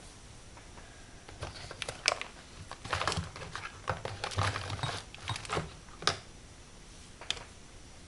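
Craft supplies being handled on a work table: an irregular run of clicks, taps and short rustles, starting about a second and a half in and ending with one last click near the end.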